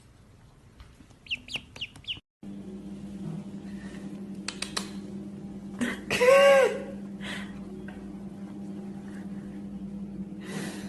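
An animal call: a few short high chirps, then one loud call about six seconds in that rises and falls in pitch, over a steady hum.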